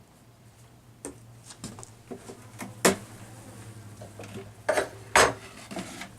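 Scattered clinks and knocks of hard hive parts being handled, two loud ones about three and five seconds in, over a low steady hum.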